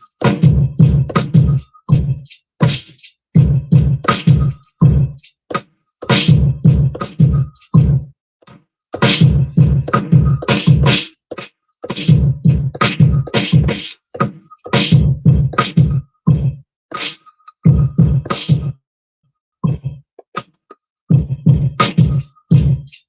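Hip-hop beat played back from a Maschine MK3 groovebox: punchy drum hits over a heavy bass, starting and stopping repeatedly in short looped sections, with full stops about 8 and 19 seconds in.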